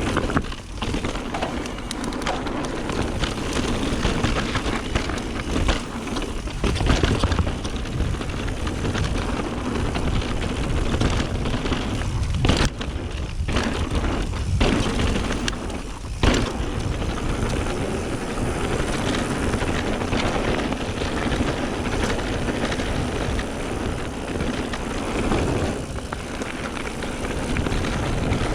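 Mountain bike riding fast down a dirt trail: steady tyre noise with the bike rattling and knocking over rough ground, broken by a few brief drops in the noise near the middle.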